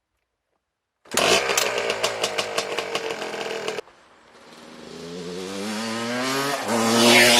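Yamaha Blaster ATV's single-cylinder two-stroke engine running. It comes in suddenly about a second in with a rapid crackle, cuts off near four seconds, then climbs steadily in pitch and loudness as it revs, peaking near the end.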